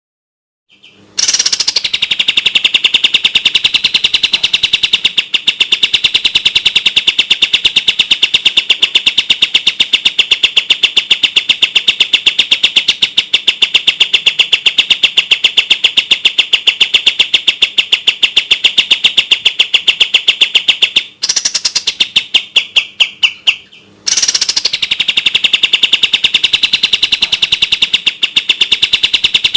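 Kapas tembak songbird singing its 'tembak' song: a long, fast, rattling series of sharp notes repeated many times a second at a steady pitch, starting about a second in. A little past two-thirds of the way it breaks into a few slower, spaced notes, then the rapid rattle resumes.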